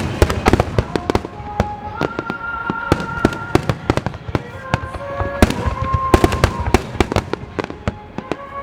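Aerial fireworks shells bursting in a dense barrage, many sharp bangs in quick succession. Music with long held notes plays behind them.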